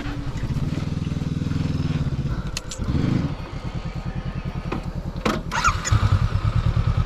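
Motorbike engine running, an even low throb, getting louder about six seconds in, with a couple of sharp clicks shortly before.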